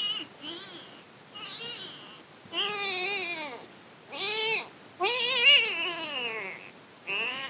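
Kitten meowing over and over, about six loud, high calls in a row, each rising and falling in pitch.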